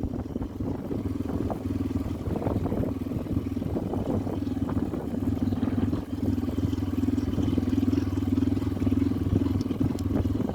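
Motorcycle engine running at a steady cruising pace as the bike is ridden, its note dipping briefly about six seconds in.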